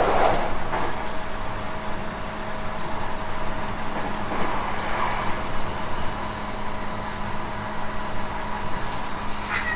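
Onboard running sound of a refurbished JR West 221 series electric train: a continuous rumble of wheels on rail with a steady hum underneath. The noise swells just after the start and again about four seconds in, and a short sharp knock comes near the end.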